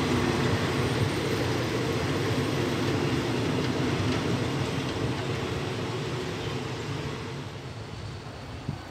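Passenger train coaches rolling away along the track: a steady rumble of wheels on rail that slowly fades as the train leaves.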